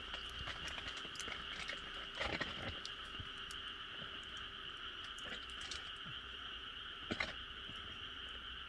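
A chorus of frogs in rice paddies calls steadily and unbroken, with scattered sharp crackles and pops from a wood fire. The loudest pops come about two seconds in and again around seven seconds.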